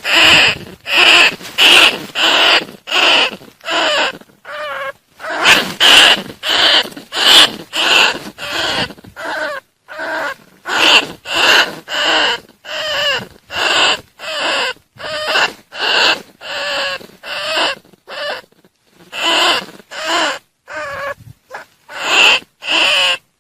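Bandicoot rat calling over and over: a long series of short, harsh squeaking calls, about one to two a second, with a few brief gaps.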